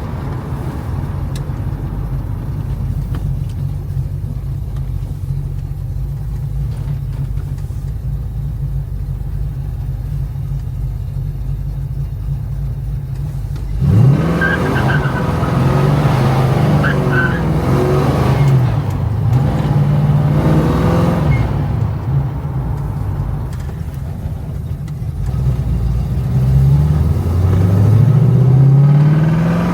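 1969 Ford Mustang Mach 1's V8 engine running at a steady low note for about the first half, then revving up sharply about halfway through. Its pitch then rises and falls several times, with another climbing rev near the end.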